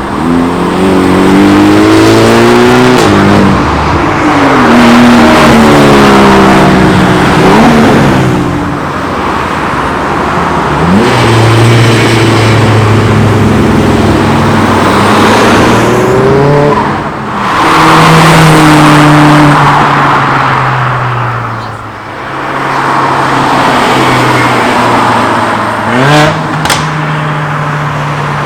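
Several modified cars accelerating away and passing one after another, their engine revs repeatedly climbing and dropping over loud exhaust and tyre noise. A couple of sharp cracks come near the end.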